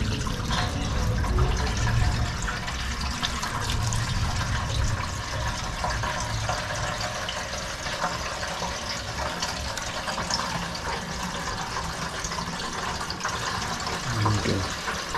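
Petrol pouring steadily from a fuel container into a motorcycle's fuel tank as it fills.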